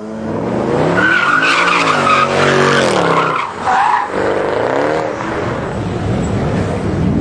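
Mercedes-AMG car doing a burnout: the engine revs rise and fall several times while the tyres squeal, the squeal loudest in the first half.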